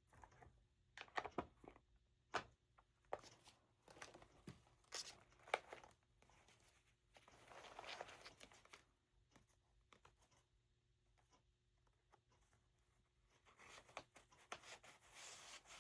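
Paper being handled at close range: intermittent rustling and crinkling with light taps and clicks.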